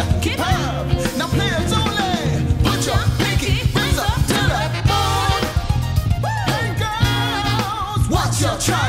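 Soul-funk band playing an upbeat song: male and female singers over drum kit, bass guitar, electric guitar and keyboard.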